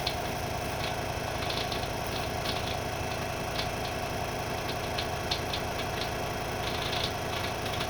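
Wen 3921 variable-speed scroll saw running steadily, its motor and reciprocating blade and arm making a constant hum with faint rattling ticks. It is switched on to test the blade's air blower.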